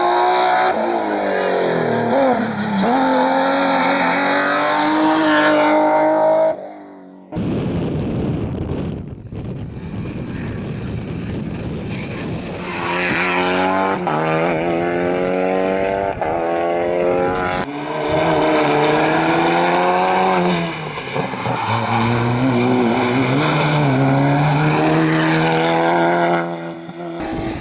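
Rally cars at full attack, engines revving hard and dropping in pitch again and again through gear changes and braking, with some tyre squeal. The sound breaks off sharply about seven seconds in, followed by a few seconds of rushing noise before engine revs return.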